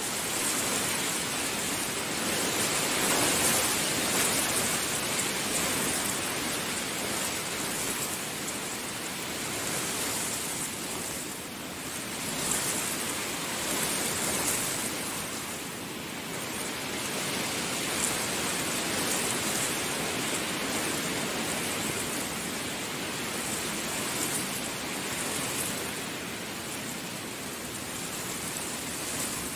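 Heavy rain falling, a dense steady hiss that swells and eases in waves.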